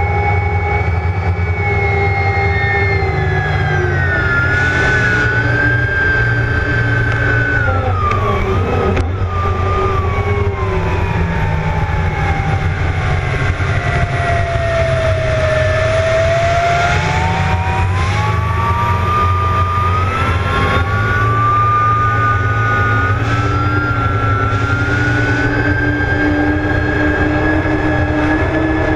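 Twin gas-turbine engines of a speed boat running loud, a deep rumble under a high turbine whine. The whine slides steadily down in pitch to its lowest just past the middle, then climbs back up toward the end as the turbines spool up again.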